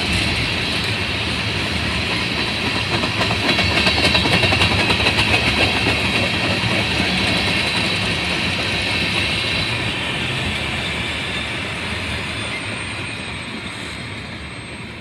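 Train cars rolling past on the rails, a steady loud rumble and rattle that slowly fades over the last few seconds.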